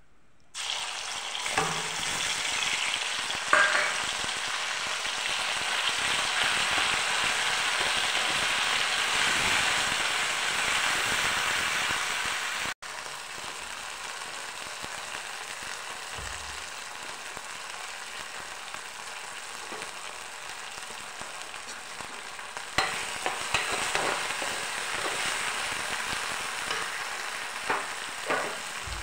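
A green paste hits hot oil with cumin seeds in a frying pan and starts sizzling loudly at once, about half a second in, a steady hiss that drops to a softer sizzle about halfway through. Near the end a metal spatula scrapes and clicks against the pan as the paste is stirred.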